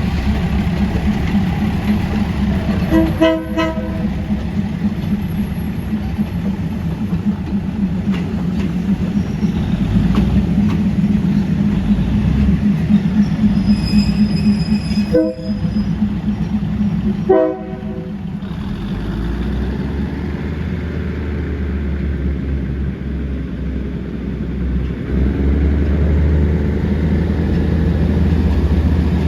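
Diesel train engine running steadily, with the horn sounded three times: a blast about three seconds in, then two short toots about halfway through, a couple of seconds apart. After the last toot the engine note drops lower, then swells again near the end.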